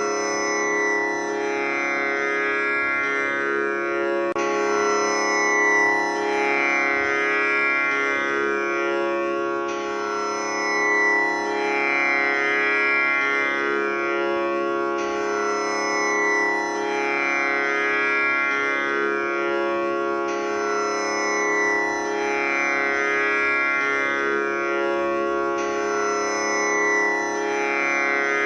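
Tanpura drone tuned to C#, its strings plucked in a steady repeating cycle that comes round about every five seconds. Each round sets off a fresh wash of overtones that glide and fade.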